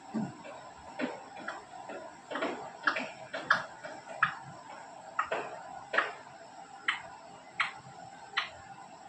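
A series of about a dozen short, sharp clicks or taps at uneven spacing, roughly one every half to one second, over a steady faint hum.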